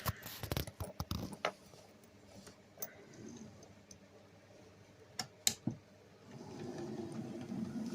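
Model class 08 shunter locomotive running on the track: a scatter of light clicks, then a steady low motor hum that starts about six seconds in.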